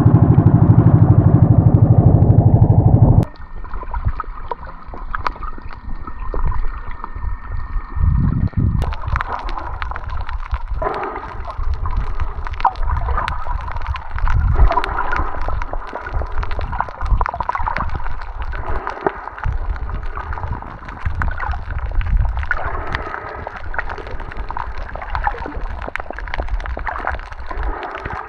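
Boat engine running loud and steady, cut off abruptly about three seconds in. After it comes water gurgling and sloshing with scattered small clicks.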